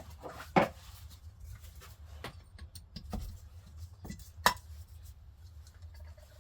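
A few sharp clicks and knocks of hard objects being handled and set down, the two loudest about half a second in and about four and a half seconds in, over a steady low hum.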